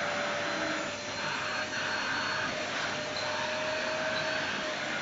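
Vacuum cleaner running steadily, a whooshing motor noise with a faint steady whine, as it is pushed over the floor.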